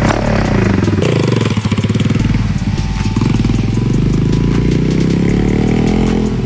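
125 cc motorcycle engine running, its pitch rising and falling as the throttle is opened and eased off.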